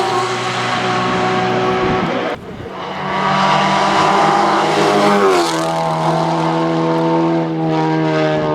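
Race car engines at high revs on a hillclimb, a loud steady engine note. About two seconds in it breaks off suddenly and builds again, and around five seconds in the pitch shifts.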